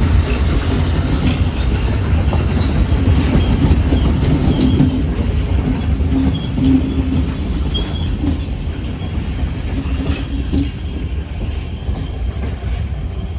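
Diesel-hauled passenger train running on the rails: a heavy, steady rumble of engine and wheels with rail clatter, easing off slightly near the end.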